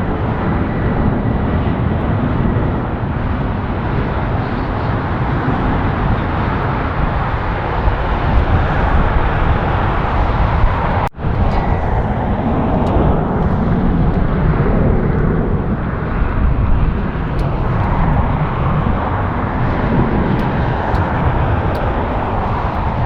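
Jet airliner engines making a loud, steady rumble and rush. There is a brief drop-out about eleven seconds in.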